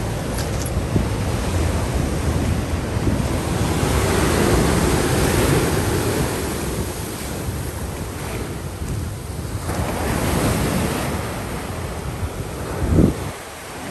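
Ocean surf breaking and washing, swelling about four seconds in and again about ten seconds in, with wind buffeting the microphone. A short low thump near the end.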